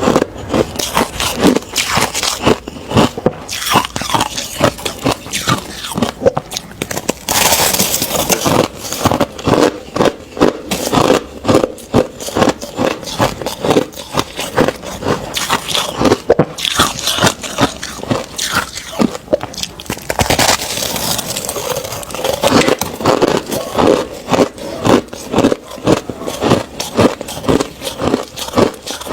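Ice being bitten and chewed: a fast, steady run of loud crunches, several a second, with brief stretches of gritty crumbling.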